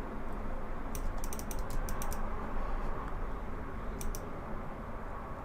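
Computer keyboard keys clicking in short clusters, about a second in and again around four seconds, over a steady low background hum.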